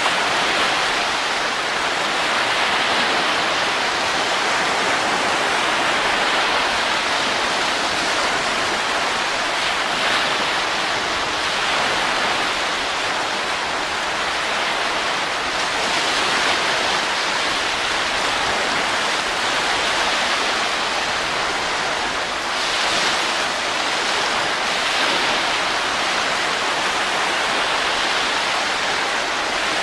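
Steady rushing wind, an even hiss that swells a little a few times.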